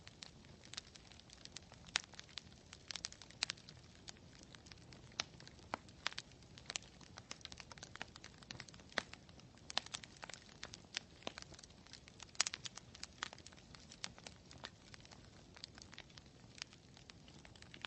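Campfire of burning wood crackling, with irregular sharp snaps and pops several times a second over a faint low hiss.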